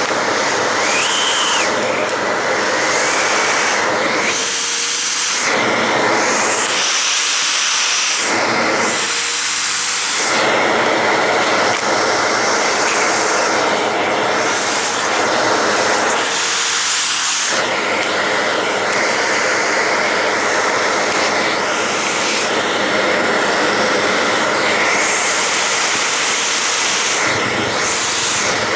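Vacuum cleaner running steadily, sucking loose corgi fur out of the dog's coat. The rush of air dulls and brightens several times.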